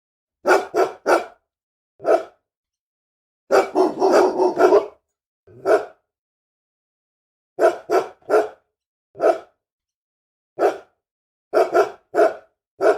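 An angry dog barking in short bursts: three quick barks, then a rapid run of barks a few seconds in, then single barks and pairs about a second apart, with dead silence between them.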